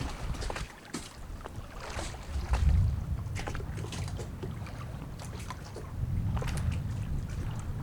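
Storm wind gusting over the microphone as a low rumble that swells twice, with scattered light ticks and taps.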